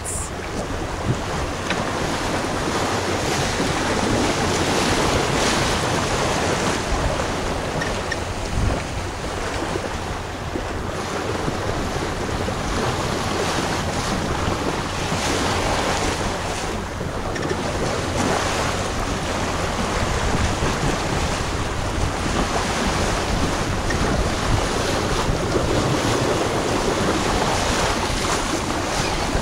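Wind buffeting the microphone over water rushing along the hull of a sailboat under way: a steady rush with small swells in level.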